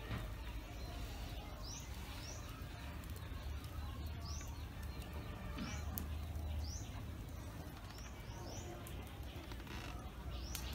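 Small birds chirping: short rising calls, often in pairs, every second or two, over a steady low rumble.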